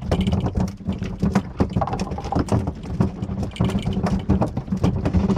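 Fishing boat's engine running with a steady low rumble, under irregular knocks and slaps.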